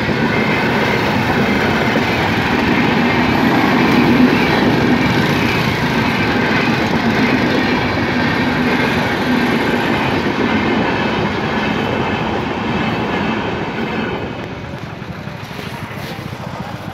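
Express passenger train coaches running through a station at speed without stopping: a steady rumble and clatter of wheels on the rails that dies down about three seconds before the end.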